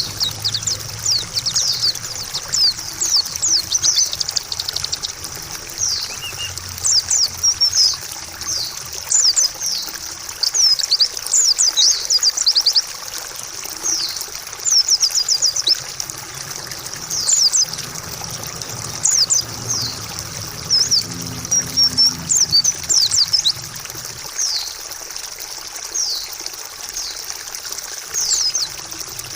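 White-eye (pleci) song in repeated short bursts of rapid, high-pitched twittering. Underneath is a steady trickle of running water.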